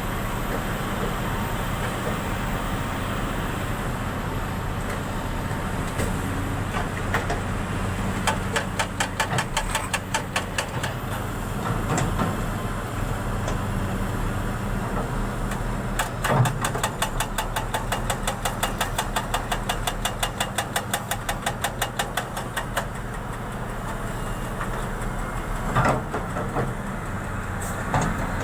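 An engine running steadily, with a fast, regular ticking that comes in about eight seconds in for a few seconds and again for several seconds from about sixteen seconds in.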